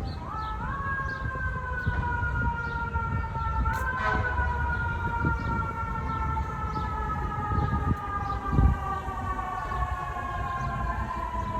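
Emergency vehicle siren wailing, its pitch jumping up near the start and again about four seconds in, then slowly falling. A low, steady rumble of city traffic runs underneath.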